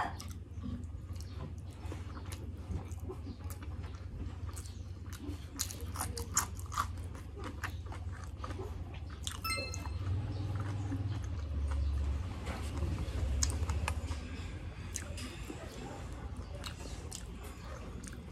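Close-up eating sounds of sisig and fried rice being eaten by hand: chewing and crunching with wet mouth clicks and smacks, coming as many short clicks.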